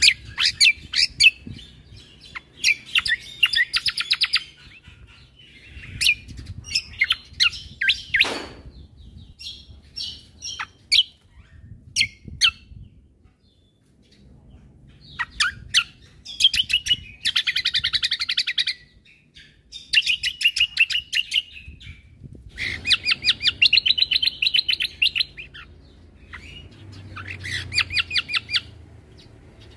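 A cucak kombo (kecial kombo) songbird singing in its fast, full song, with repeated bursts of rapid trilled notes, each a second or two long, broken by short pauses.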